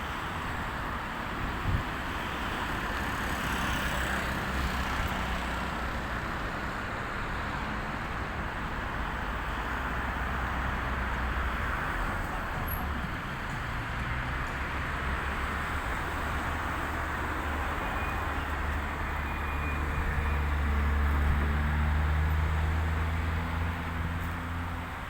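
Steady road traffic noise, with a vehicle engine's low drone growing louder in the second half and strongest near the end.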